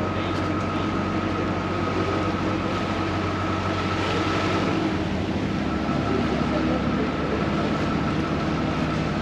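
Vaporetto water bus engine running steadily under way, with water rushing past the hull; the engine note shifts about five seconds in.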